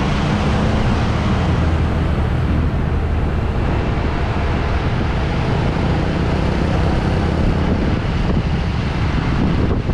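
A vehicle travelling along a road: a steady low engine hum under a constant rush of wind and road noise on the action-camera microphone.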